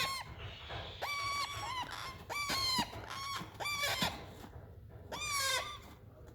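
Five-week-old parrot chicks calling: about five harsh, raspy squawks, each about half a second long, repeated roughly once a second.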